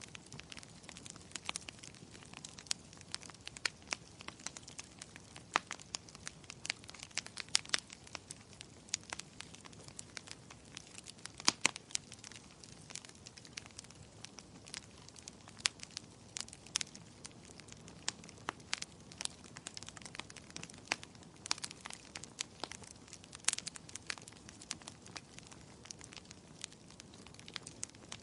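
Wood fire crackling in a fireplace: a soft steady hiss of flames with many sharp, irregular pops and snaps.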